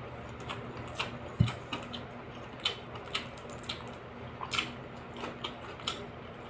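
Close-mic'd eating sounds: wet chewing and lip smacks as rice and marinated fried fish are eaten by hand, heard as irregular short clicks and squishes. A low knock about a second and a half in, over a faint steady low hum.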